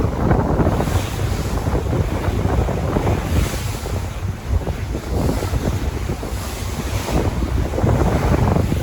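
Sea waves washing in, swelling in repeated surges of hiss, with wind buffeting the microphone as a low rumble throughout.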